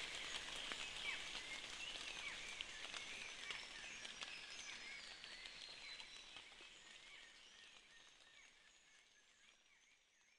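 Rainforest ambience in light rain: a soft hiss with many short chirping calls of small animals, fading out gradually.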